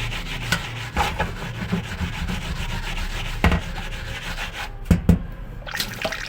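Cloth scrubbing and rubbing against the inside of a fridge's freezer compartment, with a few sharp knocks: one about a second in, one past the middle and two close together near the end.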